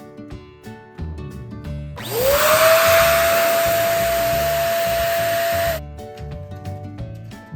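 Electric balloon pump running for about four seconds, its motor whine rising quickly as it spins up and then holding steady under a loud hiss of air, then cutting off suddenly. Background music plays throughout.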